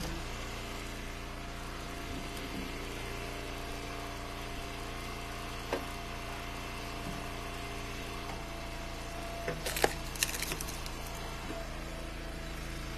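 Engine of an Eastonmade log splitter running steadily, with a single knock about six seconds in and a quick cluster of wood knocks and cracks around ten seconds in as ash firewood is split and handled.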